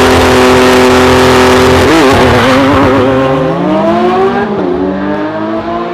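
Car engine sound, loud, running at a steady pitch, then revving up about three seconds in and easing off near the end.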